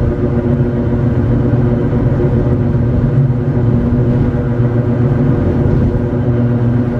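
Hakone Tozan Railway Moha 1-type electric railcar running on the line, heard from inside the car: a steady hum of its traction motors and gearing over a constant rumble of wheels on rail.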